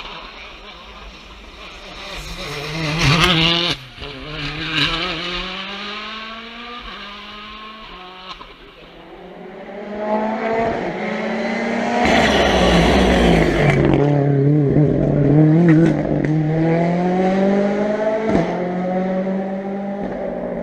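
Rally cars at full stage pace, engines revving hard and dropping with each gear change and lift, with some tyre squeal. One car passes about three seconds in. Another approaches and goes by loudly around the middle and is heard pulling away near the end.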